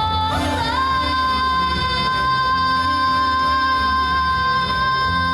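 A solo singer holds one long belted note on the word "called", stepping up in pitch just under a second in and then holding it steady over instrumental accompaniment with a bass line.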